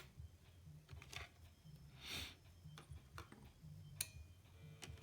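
Near silence with a faint low hum and a few sharp clicks: the amplifier's noise from the USB Bluetooth kit, much reduced by the added regulator, diode and resistor supply filter.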